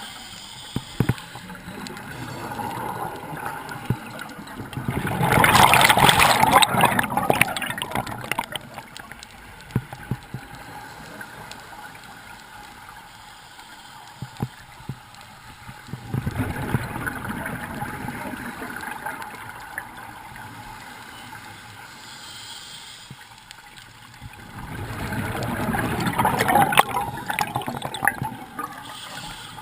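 Scuba diver's exhaled bubbles gurgling out of a regulator, three exhalations about ten seconds apart, with quieter water noise between breaths.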